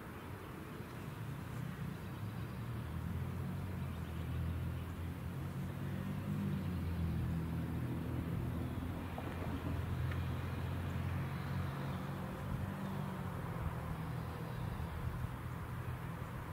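NJ Transit ALP-46A electric locomotive hauling a train past, a low steady hum that builds over several seconds and fades near the end.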